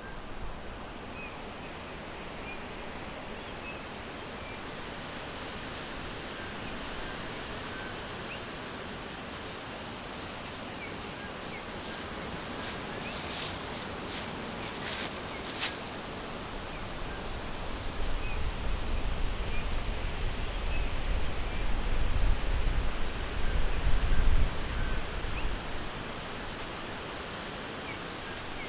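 Forest ambience: a steady hiss of wind in the trees with faint, scattered short bird chirps. A brief crackling rustle comes a little under halfway through, and a low rumble swells through the second half, then dies away near the end.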